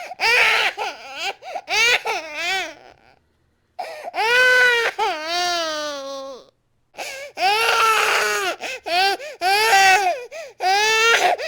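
Baby crying hard in rage: loud, high pitched wails in bursts, with short gasping breaks between them. One long wail falls in pitch in the middle.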